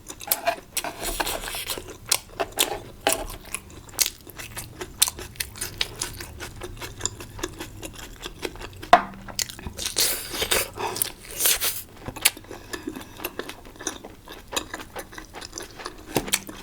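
Close-miked eating of spicy hotpot food: chewing and biting with many small clicks and smacks, and two longer hissing stretches, about a second in and about ten seconds in.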